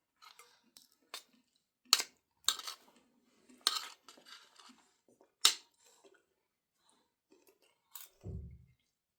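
Spoons and dishes clinking in a series of sharp knocks during a meal, followed by one low thump near the end.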